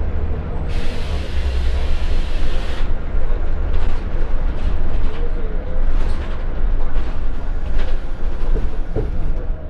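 Scania L94UB bus's diesel engine running with a steady low rumble, heard on board. About a second in, compressed air hisses out loudly for about two seconds, and a few light rattles and knocks follow.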